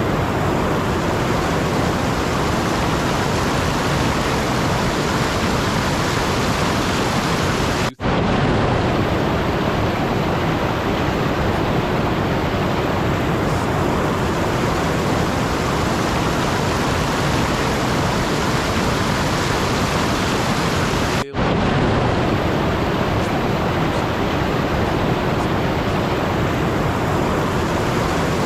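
Steady, even rushing noise with no distinct events. It drops out for an instant twice, about a third of the way in and again about three-quarters through.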